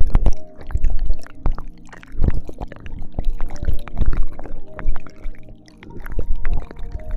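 ASMR ear-licking mouth sounds very close to a binaural microphone: a dense run of wet clicks, smacks and slurps, swelling in low rumbling waves every second or two.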